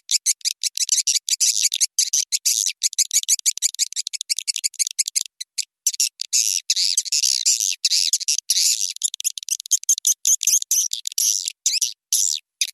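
Swiftlet lure call: a recording of swiftlets' rapid, high-pitched twittering and chattering, in quick broken runs with short gaps and no low sound at all. It is the calling sound played to draw swiftlets into a swiftlet house.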